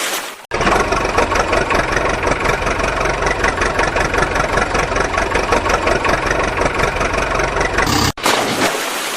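A small engine running with a fast, even putter, starting abruptly about half a second in after a stretch of hissing noise, and giving way near the end to another stretch of hiss.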